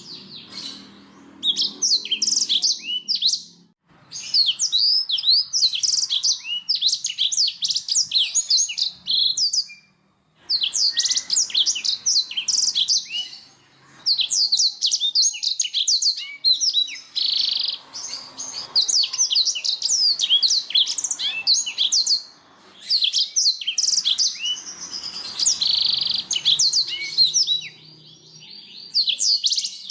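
Domestic canary singing: long phrases of fast, sweeping trilled notes and rolls, broken by short pauses every few seconds.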